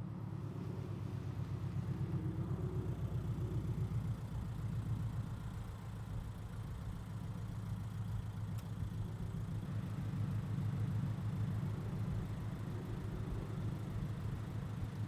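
2022 Subaru BRZ's 2.4-litre flat-four engine idling steadily through Tomei unequal-length headers, a catless front pipe and a Greddy RS exhaust, a low, even pulsing exhaust note.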